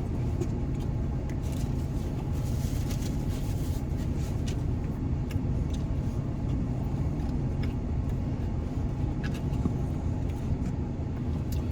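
Steady low rumble of an idling vehicle engine, unchanging throughout, with a few faint scattered clicks over it.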